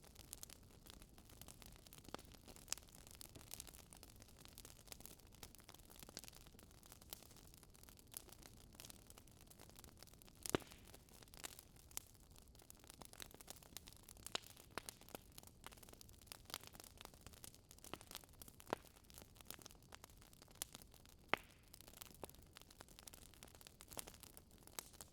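Wood fire crackling in a fireplace: faint, irregular crackles over a low hiss, with a few sharper pops, the loudest about ten seconds in and again near twenty-one seconds.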